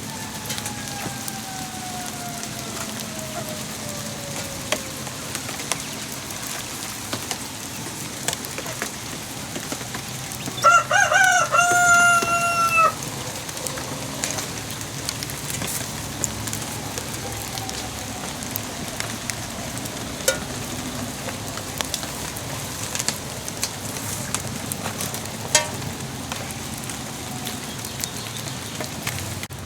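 Steady rain with scattered drips, and a rooster crowing once near the middle: a stuttering start, then a held call that falls slightly at the end.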